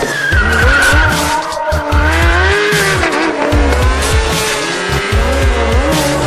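Tyres squealing with a wavering pitch as a vehicle drifts, over electronic music with a heavy bass beat.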